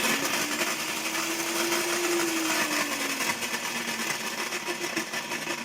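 Moulinex electric meat grinder running, its motor and reduction gearbox making a steady grating noise. The grating comes from a gearbox gear with its teeth worn away.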